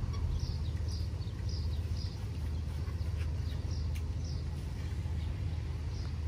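A bird chirping: a run of short, high, falling notes about twice a second, a pause, then a few more near the end, over a steady low rumble.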